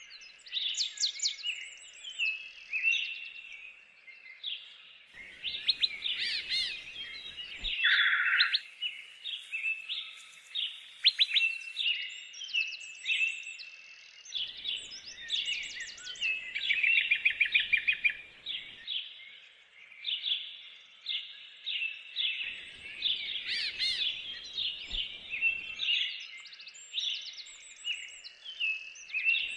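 Several songbirds singing at once: a dense chorus of trills, chirps and short repeated notes.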